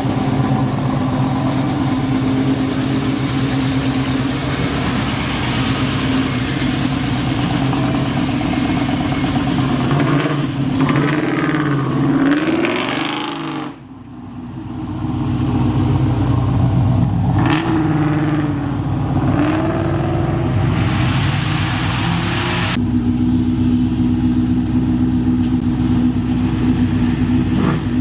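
Car engine running steadily, revved up and down twice, about ten and seventeen seconds in. It drops out sharply for a moment near the middle and picks back up.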